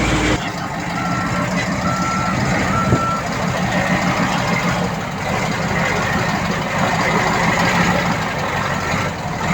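Reversing alarm on a heavy earthmoving machine beeping three times, about once a second, then once more near the end, over the steady noise of a diesel engine running.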